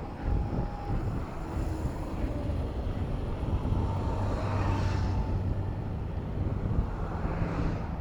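Road traffic heard from a moving bicycle: motor vehicle engines running close by, with wind buffeting the microphone. A passing vehicle's hiss swells and fades around the middle, and again near the end.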